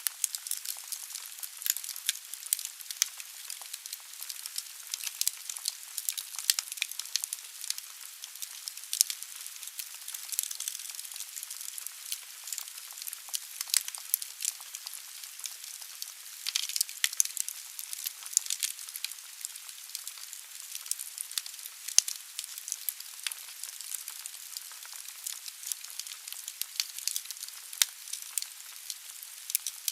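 Wood fire burning in a fireplace: logs crackling with irregular sharp pops over a steady hiss of the flames.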